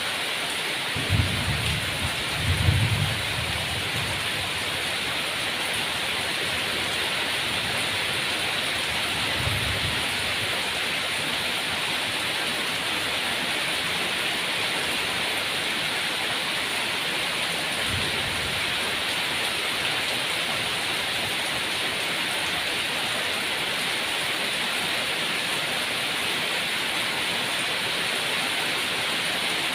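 Steady heavy rain, with a few short low rumbles, the loudest within the first few seconds.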